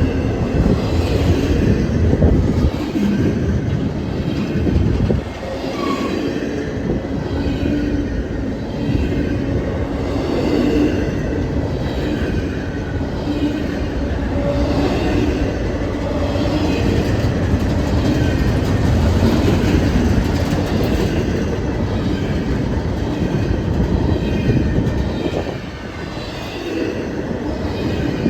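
Freight train rolling past, its cars' wheels clacking rhythmically over rail joints over a steady rumble.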